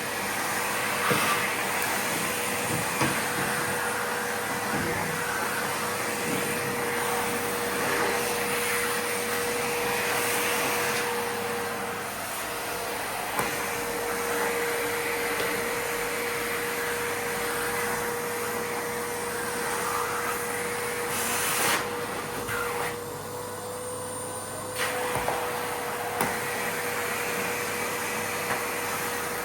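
Miele vacuum cleaner running with a steady motor whine and rushing air, sucking up Lego pieces that clatter through the nozzle in sharp clicks now and then. For about two seconds near the end the hiss of the airflow goes muffled.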